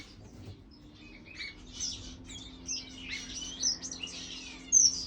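Birds chirping: a run of short, high chirps and peeps, with a faint steady low hum underneath.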